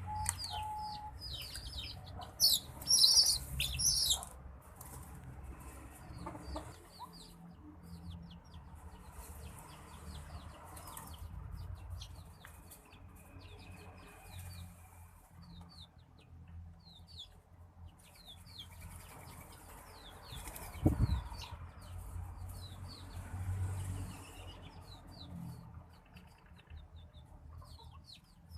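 White-breasted waterhen bathing, with noisy bursts of wing-flapping and splashing, loudest about three seconds in, and a sharp thump about twenty-one seconds in. Rapid short high chirps run throughout.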